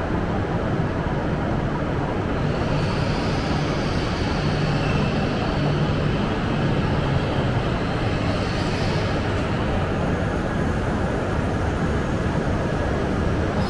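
E6-series shinkansen train running slowly along the platform as it pulls into the station: a steady, even rumble of wheels and running gear.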